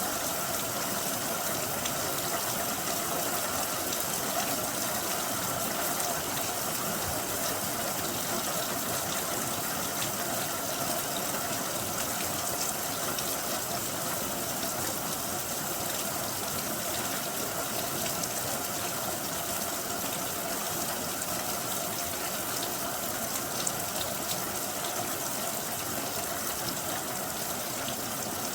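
Steady heavy rain, an even rushing hiss with the patter of many drops throughout.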